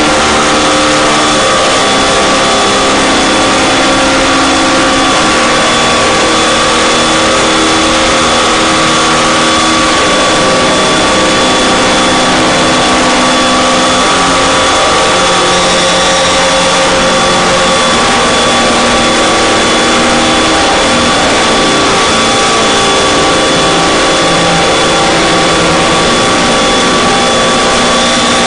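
Harsh noise and drone music: a loud, unbroken wall of static with two steady high tones over it, and low droning notes that change pitch every few seconds.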